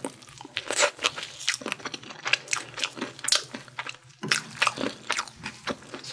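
Chewing and crunching of crispy Korean fried chicken coated in sweet-spicy sauce and peanuts, a quick irregular run of crisp crunches and bites.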